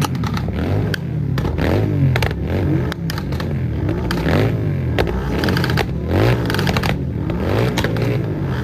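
Motor vehicle engines running, their pitch repeatedly rising and falling, mixed with scattered clicks and clatter.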